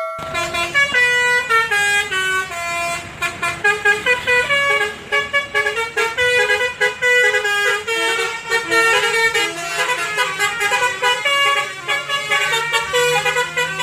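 Live band music without vocals: a fast melodic line of short stepping notes with a brassy, horn-like tone over a steady bass.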